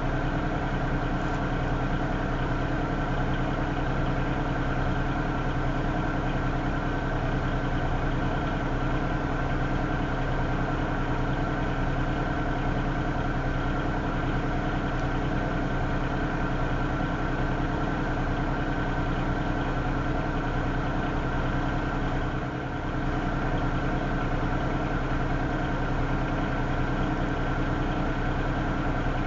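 Diesel freight locomotives idling while the train sits stopped: a steady, even engine rumble with a constant pitch.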